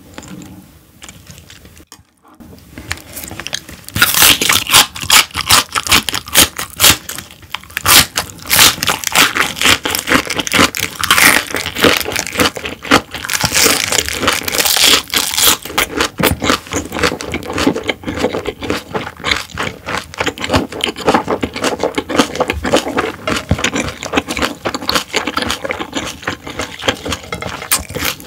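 Close-miked chewing of a wrap of raw vegetables and half-dried fish: dense, rapid crunching and crackling, quiet at first and loud from about four seconds in.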